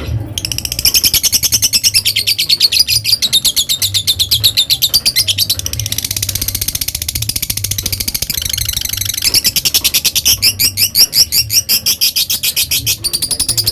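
Lovebird ngekek: a long, unbroken chatter of rapid, sharp, high-pitched notes, many to the second, loud throughout, with a short shift in pattern about nine seconds in.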